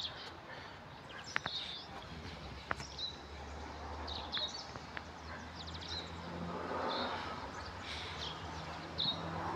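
Small birds chirping in short repeated calls over a low steady hum that grows a few seconds in, with a few sharp clicks.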